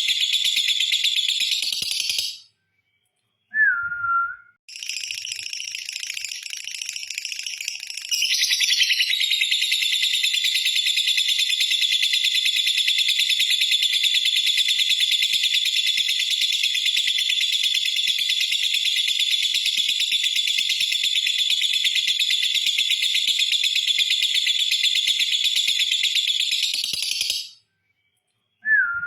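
Lovebird's 'ngekek panjang', a long unbroken high-pitched rapid chatter: a short run at the start, then one held for over twenty seconds. Two brief silences, each followed by a single short lower note that falls in pitch.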